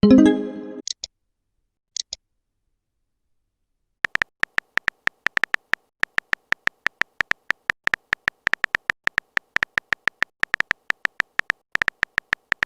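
Fast, slightly uneven clicking of a phone-keyboard typing sound effect, about six clicks a second, starting about four seconds in after a short pause. It is preceded by a short chime-like message alert at the start.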